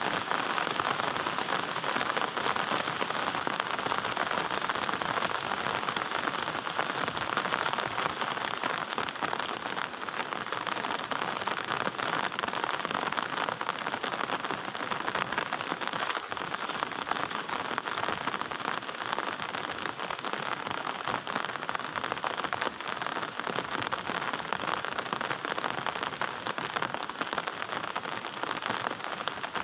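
Heavy rain falling steadily, a dense, continuous patter of drops striking a surface.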